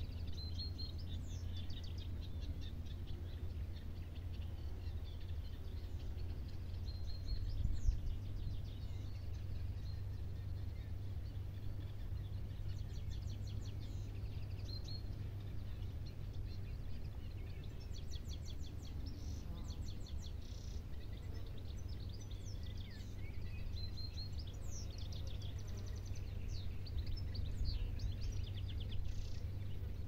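Small birds chirping and trilling in rapid high-pitched runs, on and off throughout, over a steady low rumble of outdoor background noise. There is one brief louder bump about a quarter of the way in.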